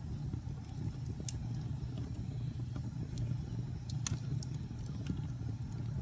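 Wood fire burning in a fireplace: a steady low rumble of flames with scattered sharp crackles and pops, the loudest about four seconds in.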